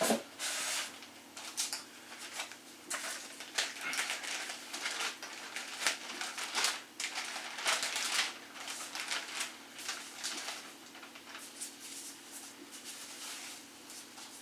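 Irregular rustling and scraping of foam and plastic packaging as a model locomotive is worked out of its box, getting quieter toward the end.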